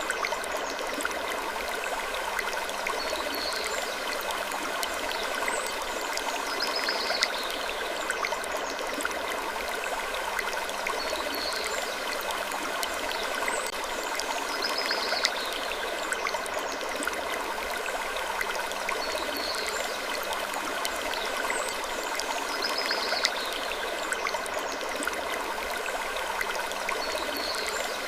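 Steady rushing, stream-like ambience noise with short high-pitched sounds coming back every second or two and scattered faint clicks.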